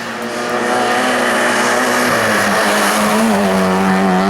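Race car engine running hard on a hill-climb course, growing louder over the first second. Its pitch dips briefly about three seconds in, then holds steady.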